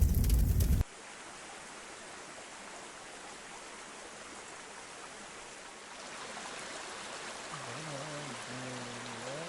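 Steady rush of flowing stream water, a little louder from about six seconds in. A loud low rumble cuts off about a second in, and a faint pitched sound rises and falls near the end.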